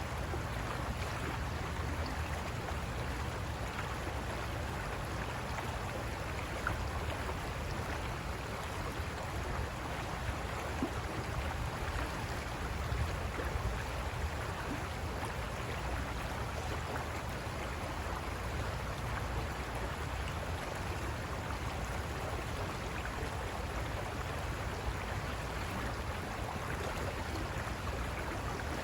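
River water rushing over rocks in a steady, unbroken flow, with a deep rumble underneath.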